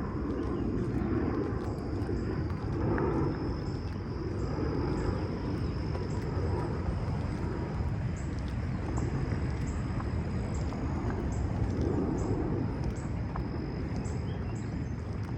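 Outdoor ambience on a walking trail: a steady low rumble with a thin, steady high tone over it. From about halfway, a short high chirp repeats roughly every two-thirds of a second.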